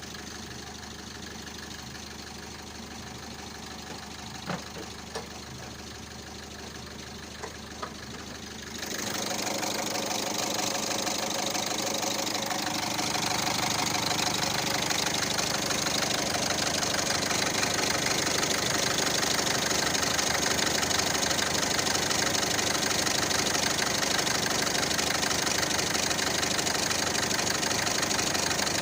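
Citroën C3 engine idling with a suspect clacking noise from the engine, a few sharp clicks standing out midway. About nine seconds in, the sound gets suddenly much louder and brighter and then stays steady.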